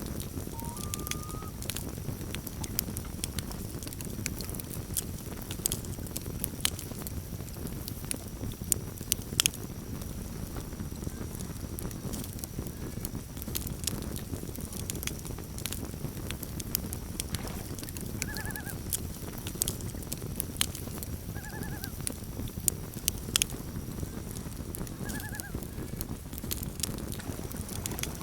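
Campfire crackling, sharp pops and snaps over a low steady rumble of burning wood. A brief rising note sounds about a second in, and three short wavering animal calls follow in the second half, about three seconds apart.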